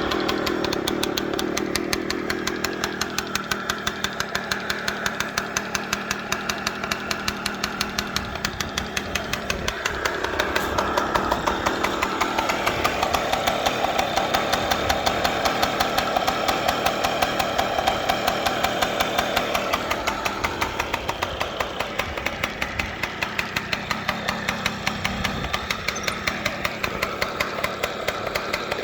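Small 50cc two-stroke Morini engine of a kids' minibike running with a fast, even firing beat. The revs rise around the middle and drop back later.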